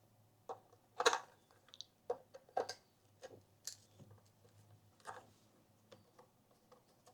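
Light, scattered clicks and taps of a cable connector and breakout board being handled, a few faint knocks spread unevenly with the clearest about a second in.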